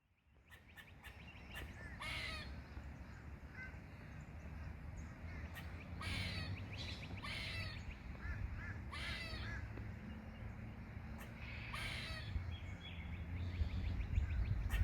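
A squirrel giving harsh, caw-like calls, several times and a second or more apart, over a steady low outdoor rumble.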